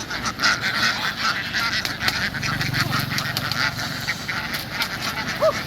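A large flock of domestic ducks quacking in a dense, continuous chatter, with one louder call standing out near the end.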